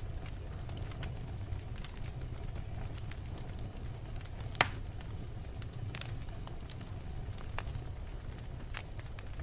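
Logs burning in a fireplace: a steady low rumble of the flames with scattered crackles, and one sharp, loud pop about halfway through.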